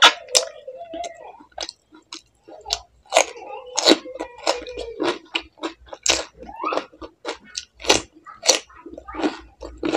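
A person biting and chewing crisp fresh fruit close to the microphone, with a steady run of sharp, wet crunches, several a second.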